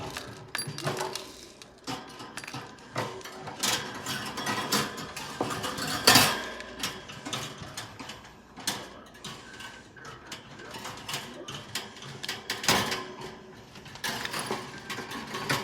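Irregular clicks, rattles and knocks of a bird cage and its parts being handled, with louder knocks about six seconds in and again near thirteen seconds.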